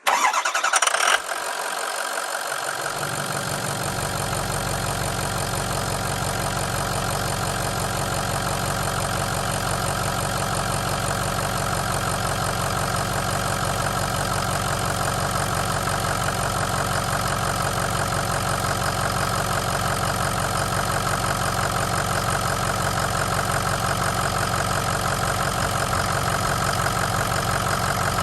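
2006 Ford F-350 King Ranch pickup's engine on a cold start: it catches right away, is loudest for about the first second, then settles into a steady idle.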